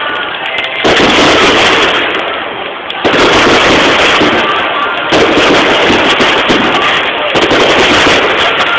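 Fireworks display: a dense run of bangs and crackling bursts, with a fresh loud volley about one, three and five seconds in, over music played for the display.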